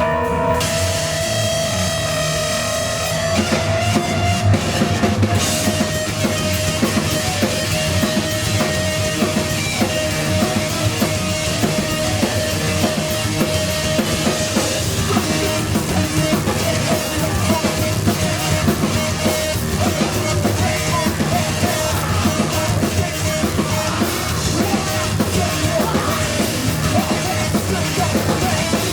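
Live heavy rock band playing at full volume: a pounding drum kit with bass and guitar, and a long held high note over it. The drums come in hard a few seconds in.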